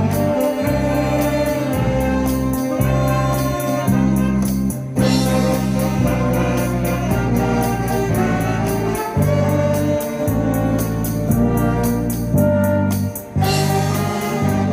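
Live amateur band music: wind instruments playing a melody over a bass line and a steady drum beat.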